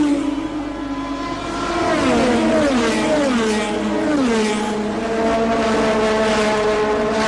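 1984 Formula One race car engines at high revs. The engine note drops in pitch four times in quick steps, then holds a steady high note through the second half.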